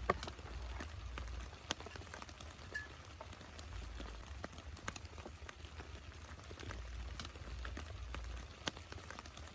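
Rain falling, with single drops tapping irregularly over a steady hiss of rain.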